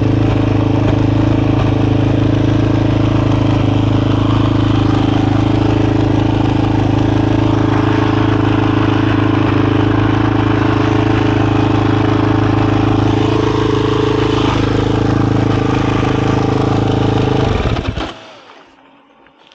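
A KTM 500 EXC-F single-cylinder four-stroke dirt bike engine idles steadily through its Graves aftermarket exhaust, then dies away about a second before the end.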